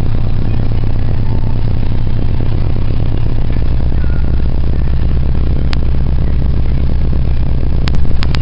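The 350 Oldsmobile V8 of a 1972 Oldsmobile Vista Cruiser is running steadily at low revs through its dual exhaust, shortly after a cold start, as the car is eased along. The note drops slightly about three seconds in. A few sharp clicks come near the end.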